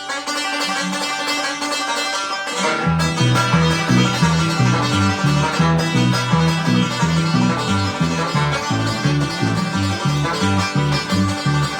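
Banjo picking an old slow bluegrass tune, with a guitar joining about three seconds in to play a steady rhythm of low alternating bass notes.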